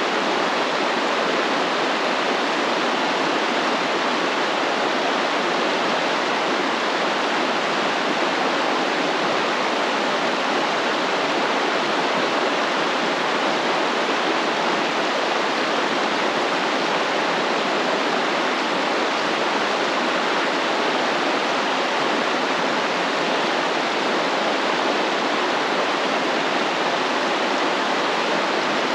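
Stream water flowing and splashing in a steady, unbroken rush.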